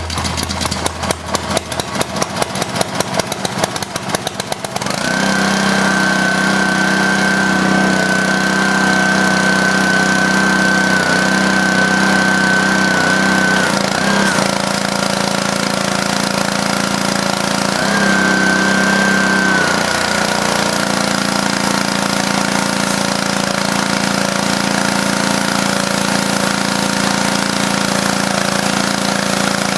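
Honda GCV190 engine on a pressure washer running, with rapid uneven pulsing for the first few seconds before it settles into a steady hum. A high whine joins about five seconds in, breaks briefly partway through, comes back, then stops, while the engine runs on.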